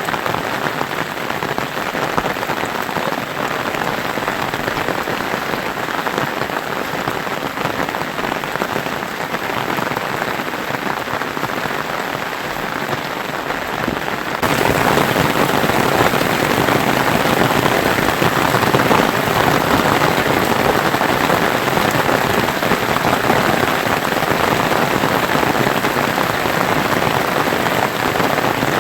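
Steady heavy rain falling, an even hiss of drops that gets louder about halfway through.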